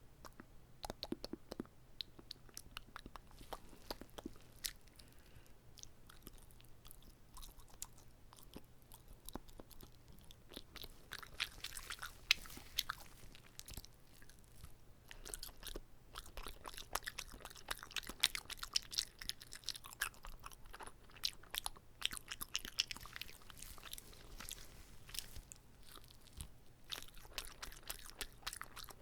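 Chewing and biting of a whole, uncut gimbap roll: a continuous run of wet mouth clicks and soft crunches, busiest through the middle and latter part.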